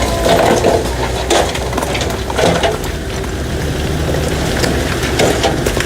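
Heavy machine engine running steadily under irregular cracking and splintering, like wood and brush being crushed.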